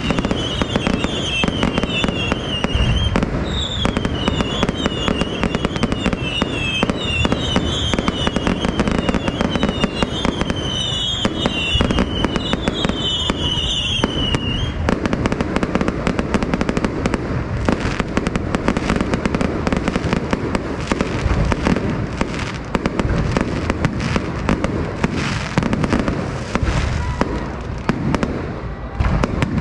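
Fireworks display: a dense, continuous run of bangs and crackles, with a string of high, falling whistles through the first half that stops about halfway.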